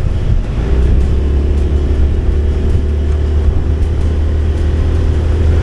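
Motorcycle running at steady road speed: a continuous low engine and wind rumble with no change in pace.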